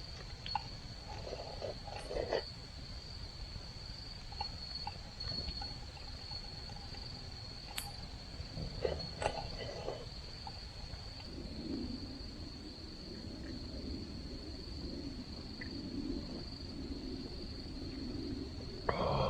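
Insects trilling without a break at one high, steady pitch, with a few faint clicks and knocks.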